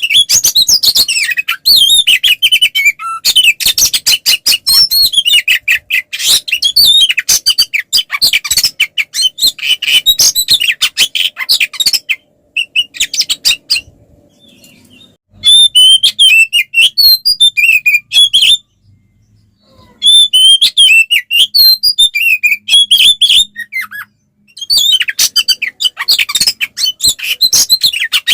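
Oriental magpie-robin (kacer) singing loudly in fast, dense runs of chattering and whistled notes. This is the open-throated, aggressive 'fighting' song used to provoke other magpie-robins, with a few short pauses, the longest about halfway through.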